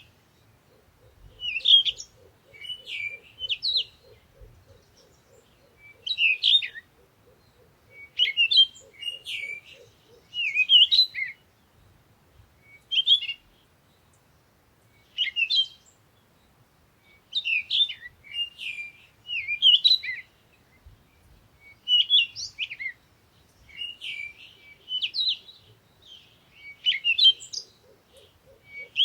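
Songbirds chirping and singing in short phrases repeated every second or two, with a faint fast low trilling or pulsing underneath for the first ten seconds or so and again near the end.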